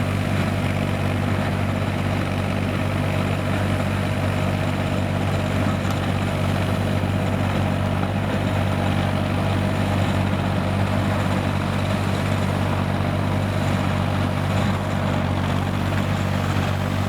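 Kubota M5000 tractor's diesel engine running steadily at a constant speed.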